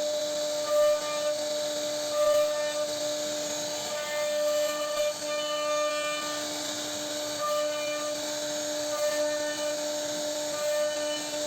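CNC router spindle whining at a steady pitch while its bit cuts into a wooden board, with a rasping cutting hiss; the higher tones swell and fade as the bit's load changes.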